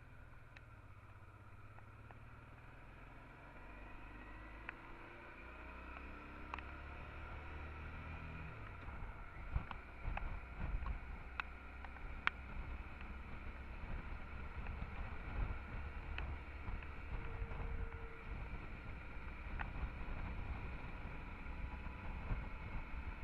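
Honda Transalp XL650's V-twin engine accelerating, its pitch rising over several seconds, then a steady low rumble of wind and road noise at speed, with scattered sharp ticks of rain hitting the camera.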